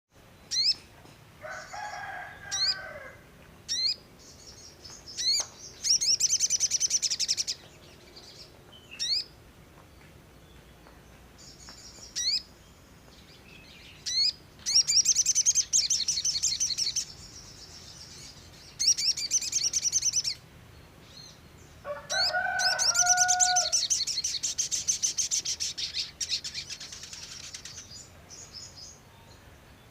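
Songbird singing in repeated phrases: sharp single down-slurred whistles and rapid, high, buzzy trills lasting one to two seconds. Twice, near the start and about two-thirds through, comes a lower, fuller call.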